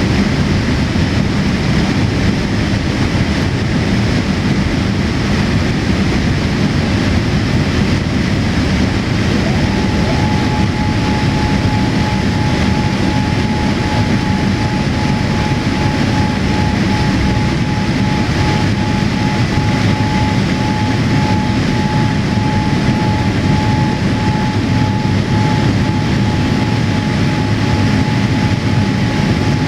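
Steady cabin noise inside a Boeing 787-8 airliner, from its engines and the airflow. A steady, thin whine joins it about ten seconds in.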